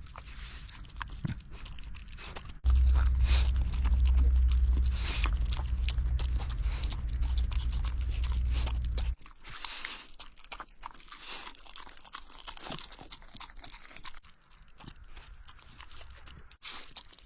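A pet animal chewing and crunching a meal of shredded cured pork rib mixed with rice, in many small irregular bites. A loud low rumble starts abruptly about three seconds in and cuts off about nine seconds in.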